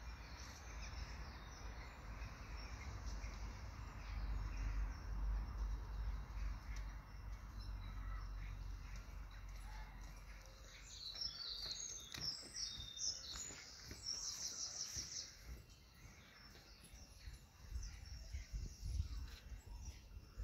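Outdoor street ambience with a steady low rumble on the microphone, and a small bird singing in quick, high chirping phrases about halfway through.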